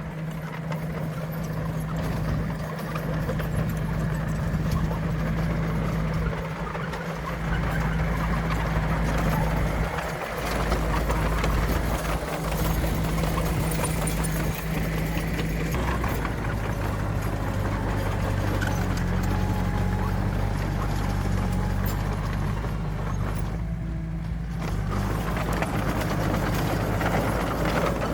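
Diesel engines of heavy earthmoving machines running steadily, with a change in the engine note a little past halfway.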